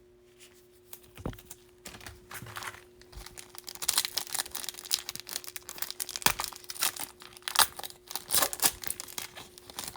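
Plastic foil wrapper of a Bowman baseball card pack being torn open and crinkled by hand: a dense run of short crinkles and crackles that picks up about four seconds in, after a single soft thump near the start.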